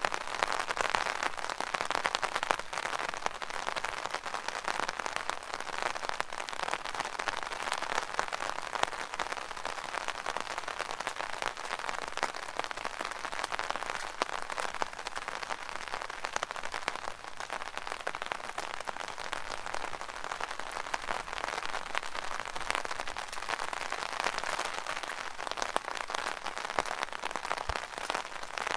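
Rain falling on an umbrella: a dense, steady patter of drops on the canopy.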